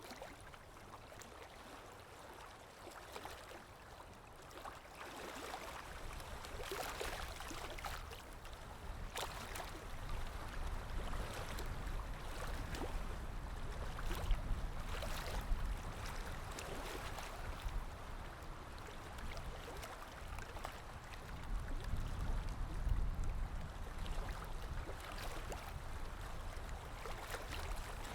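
Water lapping against a shore with small splashes, under wind that gusts up twice in low rushes, about halfway through and again near the end.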